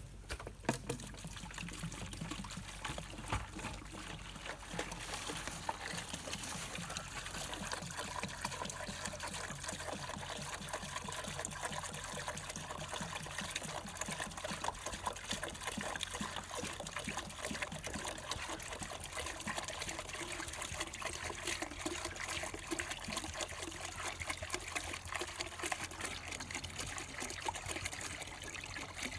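Water pouring and trickling steadily into a bucket.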